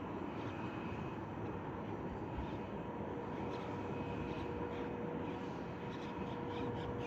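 Boeing 777 jet engines idling steadily: a rushing drone with a steady whine, a second, lower tone coming in about three seconds in.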